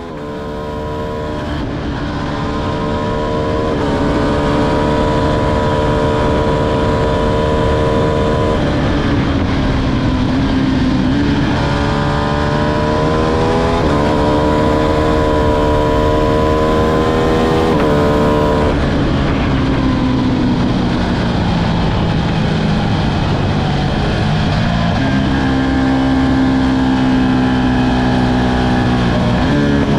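Ducati Streetfighter V2's 955 cc V-twin engine pulling hard under acceleration. Its pitch climbs steadily in each gear and drops sharply at each upshift, several times, over a constant rushing noise.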